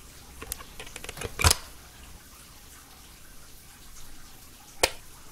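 A few small clicks and handling knocks, the loudest about a second and a half in, then a single sharp click near the end as a wall power switch is pressed.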